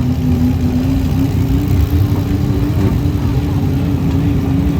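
A mini truck's engine running loud at high, nearly steady revs, its pitch wavering only slightly.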